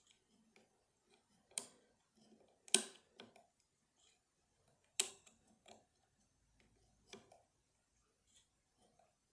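Metal picking tools clicking and scraping inside a lever lock as it is picked: a handful of sharp clicks, the loudest about three and five seconds in, among faint small ticks.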